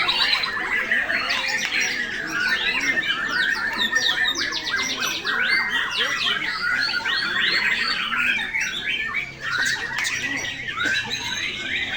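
Many caged white-rumped shamas (murai batu) singing at once in a dense, overlapping chorus of whistles, glides and fast trills.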